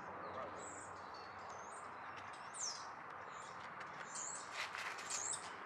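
Birds chirping: short, high chirps now and then and one quick falling whistle, over a steady background rush of outdoor noise, with a few faint clicks near the end.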